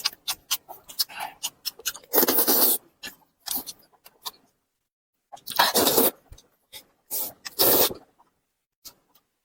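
Close-up eating: wet chewing and smacking clicks, broken by three short breathy bursts of slurping or hard breathing.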